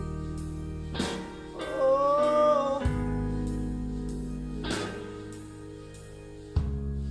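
Band music playing the slow closing stretch of a blues-rock ballad: sustained guitar chords over a low bass, changing every second or two, with a held, wavering note about two seconds in.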